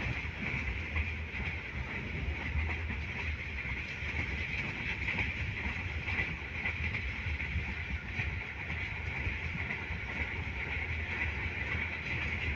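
Steady running noise of a moving passenger train heard from inside a carriage: a low rumble with a hiss above it, even throughout.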